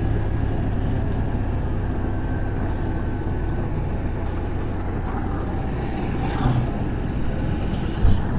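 Honda CB200X motorcycle being ridden along a road, its single-cylinder engine running steadily under wind noise. A brief louder sound rises and falls about six to seven seconds in, likely a passing vehicle.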